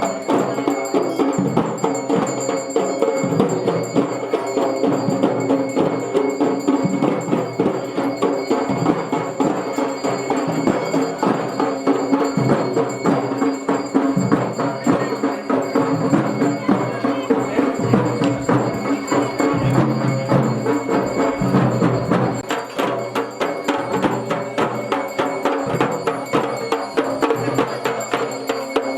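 Traditional Garhwali drumming on dhol and damau, with fast, continuous strokes and bells ringing over it.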